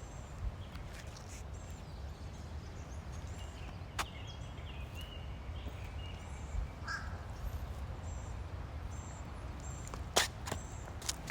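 Birds calling outdoors: scattered short, high chirps and one lower call about seven seconds in, over a steady low rumble. A few sharp clicks, the loudest about ten seconds in.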